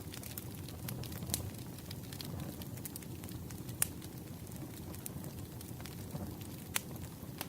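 Campfire burning: a steady low rumble of flames with scattered sharp crackles and pops of burning wood, three of them standing out.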